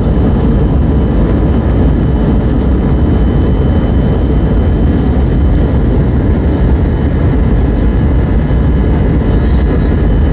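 Steady jet-engine and airflow noise inside an airliner cabin, a loud, even rumble with faint steady tones above it.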